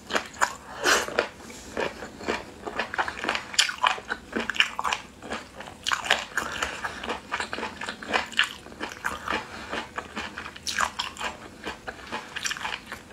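Close-up chewing and biting of pickled chicken feet in chili, with irregular crunches and crackles of skin and cartilage throughout.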